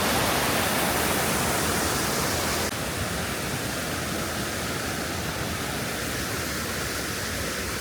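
Steady rush of falling water from a small waterfall, dropping suddenly to a lower level a little under three seconds in.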